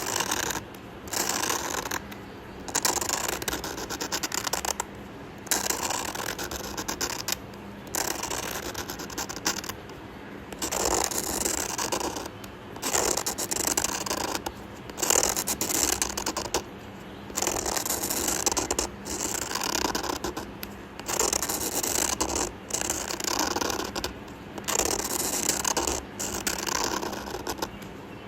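Drawing tool scratching across paper in repeated strokes, each lasting a second or two with short pauses between them, as lines are drawn.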